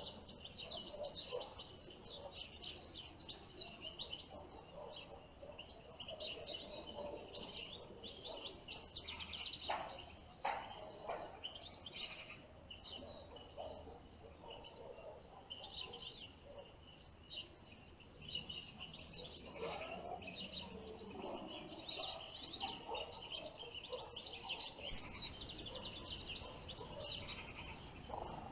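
Small songbirds twittering and chirping, many quick overlapping calls throughout.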